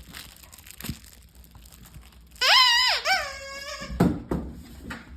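Dog's squeaky toy squeezed and released, giving two long high squeaks, the second lower and held longer, with a few dull thuds of play around them.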